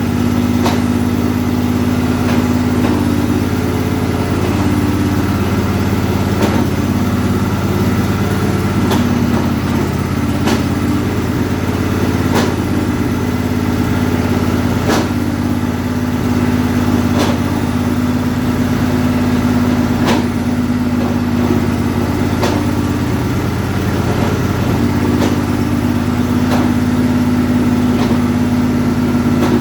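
The transplanted engine of an MTD White riding mower running steadily, with a sharp click every two seconds or so. Its note wavers briefly about three-quarters of the way through.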